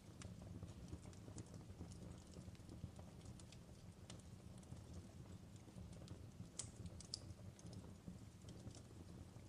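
Fireplace fire crackling quietly: irregular small pops and snaps over a low rumble, with two sharper pops about seven seconds in.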